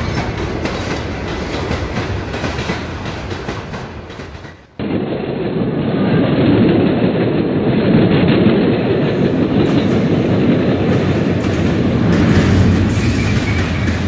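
A train running on track, with the clickety-clack of wheels passing over rail joints. About a third of the way in the sound cuts off abruptly, then a louder, duller running noise takes over.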